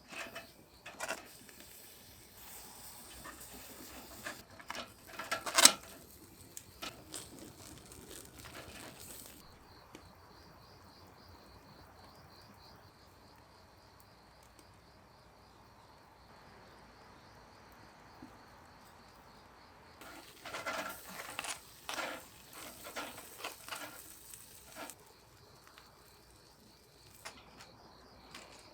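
Crickets chirping steadily in a continuous high trill through the middle of the stretch. Before and after it come irregular clicks and knocks, the loudest about five and a half seconds in.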